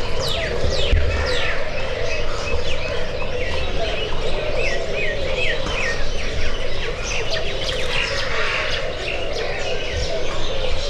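Many small birds chirping, with quick falling notes and, about halfway through, a run of four quick hooked chirps, over a steady background din.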